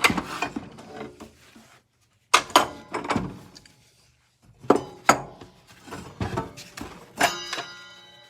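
Hand tools clanking and clicking on the metal of a miter saw's blade arbor as someone works at its reverse-threaded bolt, in several short bursts of knocks. One metallic hit near the end leaves a brief ringing tone.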